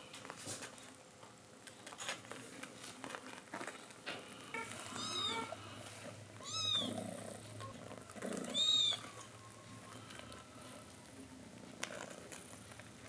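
Cat mewing three times: short, high-pitched, rising-and-falling calls about two seconds apart, the last the loudest, over a low steady purr.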